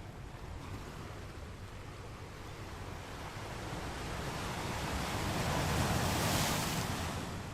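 Ocean waves on a beach: a steady wash of surf that builds to one breaking wave, loudest about six seconds in, and then falls away.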